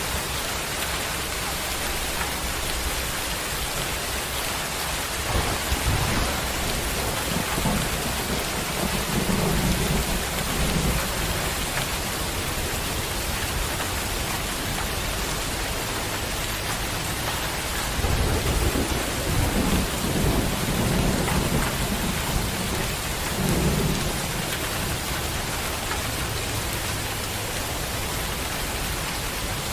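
Heavy rain falling steadily, with thunder rumbling twice: about five seconds in and again around eighteen seconds in, each rumble lasting several seconds.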